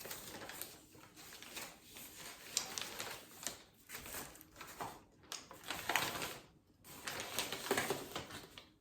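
Food wrapper rustling and crinkling in irregular bursts as a wrap is handled and torn open.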